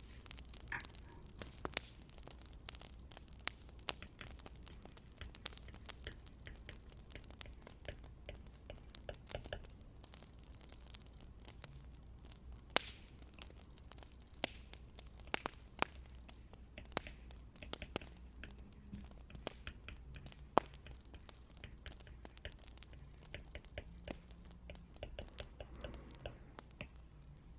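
Firewood burning in a fireplace, crackling with irregular sharp pops over a low, steady rumble.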